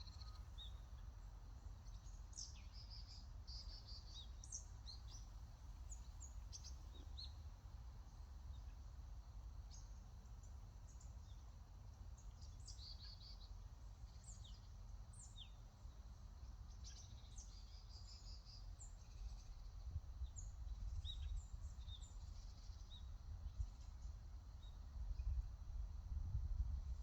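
Small birds chirping, many short high notes scattered throughout, over a low rumble that grows louder near the end.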